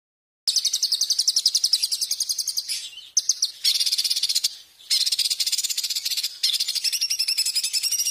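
Recorded songbird giving shrill, rapid trills, fast even pulses repeated in phrases of one to two seconds with short breaks between them. The sound starts abruptly about half a second in.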